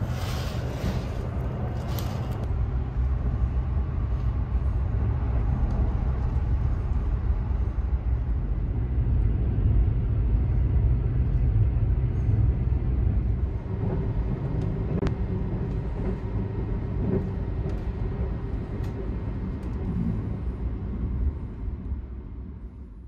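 Sleeper train running at speed, a steady low rumble heard from inside the compartment. A fabric curtain swishes as it is pulled open in the first couple of seconds, and the sound fades out near the end.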